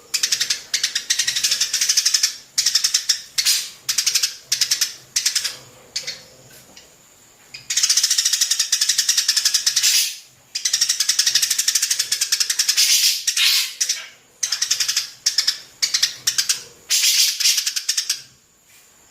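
A bird giving rapid, high-pitched rattling chatter in repeated bouts, some brief and some lasting two seconds or more, with short pauses between.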